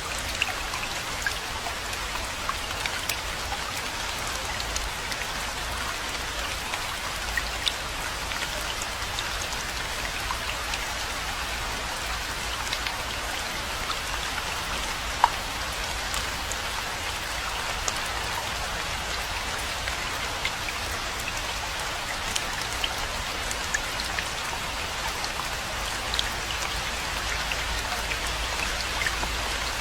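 Steady rainfall, a continuous hiss with many individual drops ticking sharply throughout, one louder drop about halfway through, over a low steady rumble.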